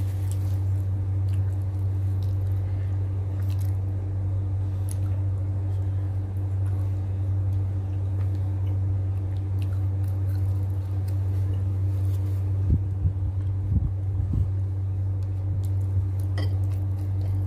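A person chewing and biting food, with scattered small mouth clicks and a few soft low thumps about two-thirds of the way in, over a steady low hum.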